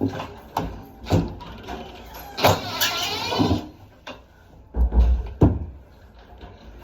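Sharp knocks and clicks of hard parts being handled on the front of a Samsung washer-dryer while it is taken apart, with a wavering squeal in the middle lasting about a second.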